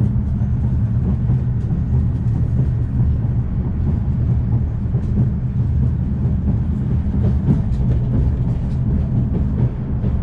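Afrosiyob high-speed train (Talgo 250) running, heard from inside a passenger wagon: a steady low rumble with faint light clicks and rattles, more of them in the second half.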